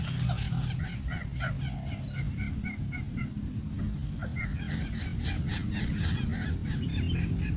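Nestling birds calling in short repeated notes, about three or four a second at first and a faster run from about halfway through, over a steady low rumble.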